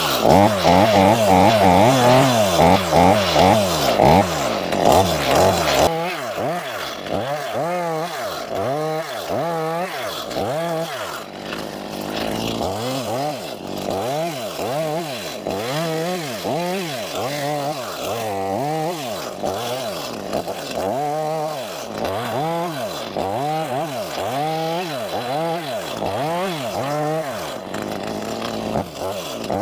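Battery-powered Stihl chainsaw cutting up a felled pin oak for firewood. It runs loud and fairly steady for about six seconds, then its pitch drops and rises again over and over, about once a second, as the chain loads in the wood and frees up.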